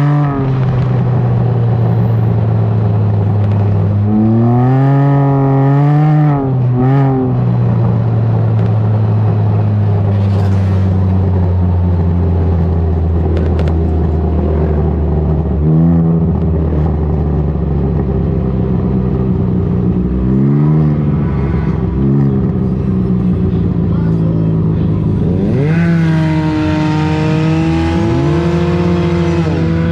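Can-Am Ryker three-cylinder engine running through a BKD Insomnia series aftermarket exhaust while riding, its revs dipping and rising quickly a few times, then climbing steadily near the end.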